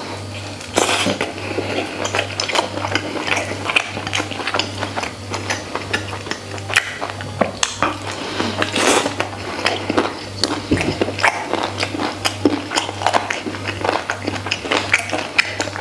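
Close-up eating sounds of a person biting and chewing braised pork ribs with rice: an uneven run of wet smacks and small clicks.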